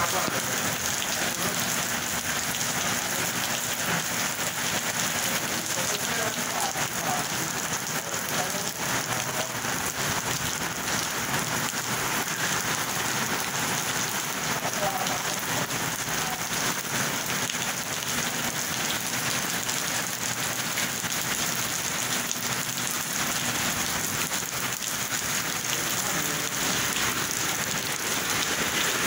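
Steady heavy rain pouring onto a flooded street and paving, splashing into standing water.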